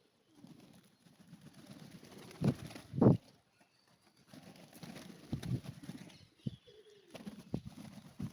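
A flock of rock pigeons cooing continuously, with two louder moments about two and a half and three seconds in and a few short sharp knocks near the end.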